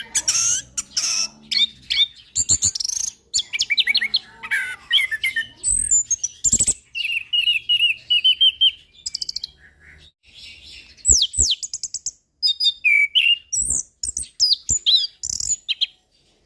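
Male orange-headed thrush singing a long, varied song of rich whistles, sweeping notes and fast repeated trills, with a brief pause about ten seconds in.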